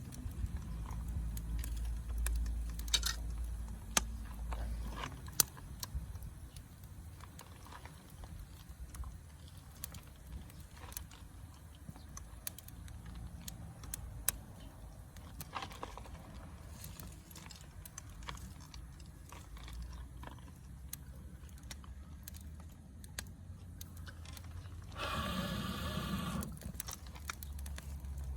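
Campfire crackling: scattered sharp pops and ticks over a low rumble that is strongest in the first few seconds. Near the end a brief pitched sound of unclear source cuts in.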